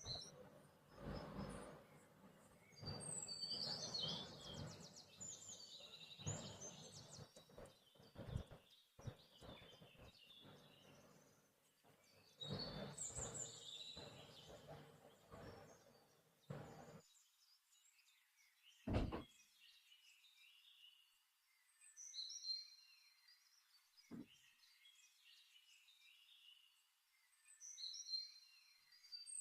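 Faint chirping of small birds, repeated throughout, over uneven low rustling and handling noises in the first half. Two short knocks follow later.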